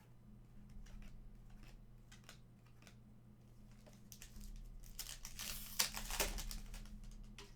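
Trading cards and their pack wrapping being handled: a few light ticks and slides, then, about four seconds in, a few seconds of crinkling and tearing, like a foil pack being ripped open.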